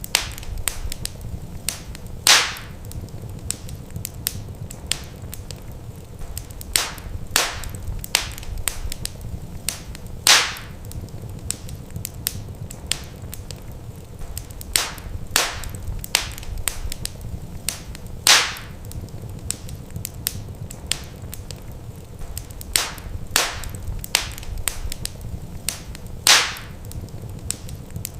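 Wood fire crackling in a fireplace: irregular sharp snaps and pops, a few louder ones every several seconds, over a steady low rumble of the burning logs.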